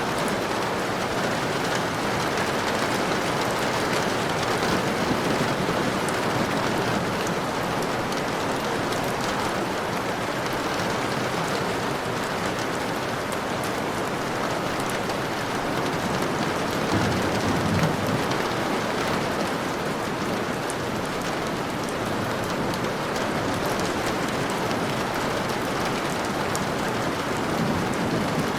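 Steady heavy rain falling on a surface, a dense hiss dotted with fine drop ticks. About two-thirds of the way through comes a brief low rumble.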